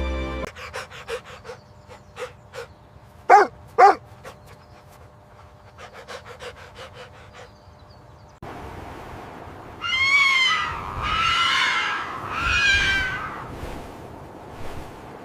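An animal calling: two short, loud calls about half a second apart a little over three seconds in, among light ticking. Three longer, high calls follow over a steady hiss about ten seconds in.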